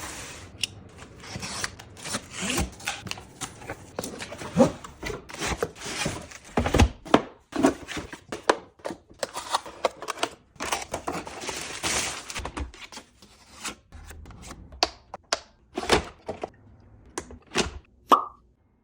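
Unboxing handling: cardboard and plastic packaging rustling, with clicks and thunks as parts are moved and set down. The handling thins out later, and two short tones sound near the end.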